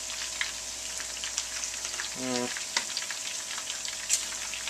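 Bacon-wrapped, battered chicken pieces shallow-frying in hot grease in a skillet: steady sizzling with many small crackles and pops.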